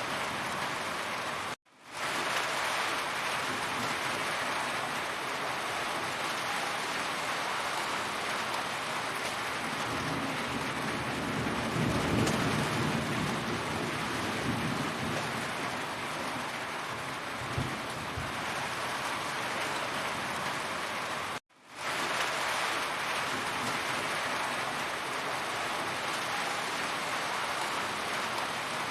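Heavy rain falling steadily, with a low rumble swelling and fading about halfway through. The sound cuts out twice for a moment and fades back in.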